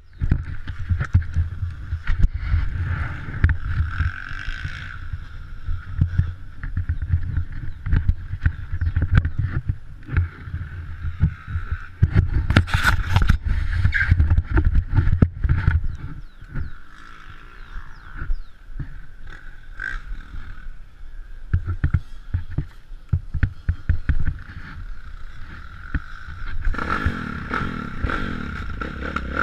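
Motocross bike riding off-road: the engine running under a heavy low rumble with many short knocks and rattles, and the engine revving up about three seconds before the end.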